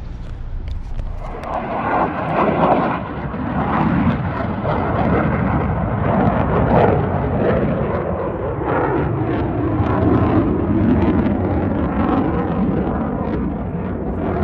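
Aircraft passing overhead: a loud, steady engine rumble that swells about a second and a half in and keeps going.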